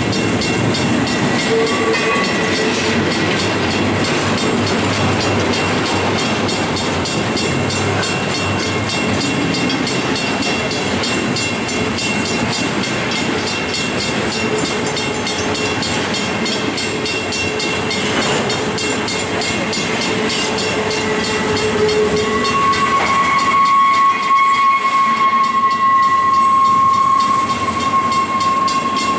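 Loaded double-stack container cars rolling past close by with a steady rumble and clatter of wheels over the rail. High steady squealing tones come from the wheels, and a stronger squeal sets in near the end.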